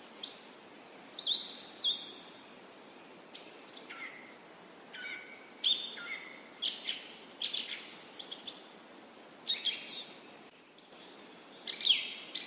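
Songbirds chirping in short, quick, high-pitched phrases of sweeping notes, one phrase every second or so with brief pauses between, over a faint steady hiss.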